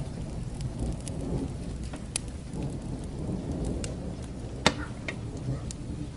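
Rain, crackling fire and distant thunder mixed together: a low rolling rumble under steady rain hiss, with scattered sharp crackling pops, the loudest about four and a half seconds in.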